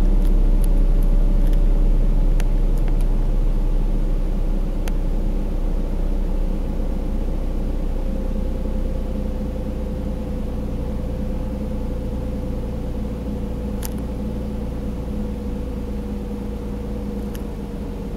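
Nissan 350Z's VQ35HR V6 engine idling during warm-up, the idle slowly easing down in pitch and loudness as the fast cold idle settles. A few sharp clicks are scattered through it.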